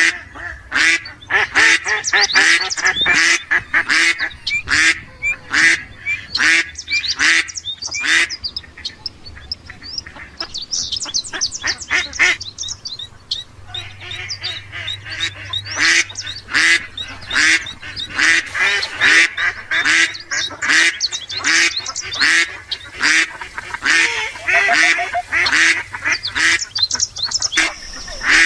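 Ducks quacking, calls following one another rapidly, with a brief lull about halfway through.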